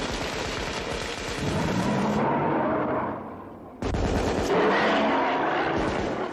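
A rapid, continuous fusillade of hunting-rifle fire that dies down about three seconds in and breaks out again abruptly a little later. A wavering, pitched cry sounds over the shots.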